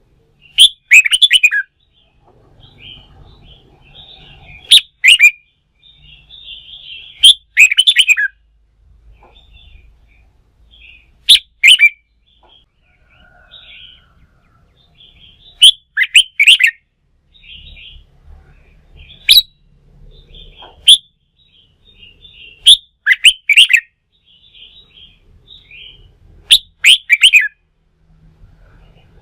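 Red-whiskered bulbul singing: loud short song phrases of about a second each, repeated every three to four seconds, with softer twittering between.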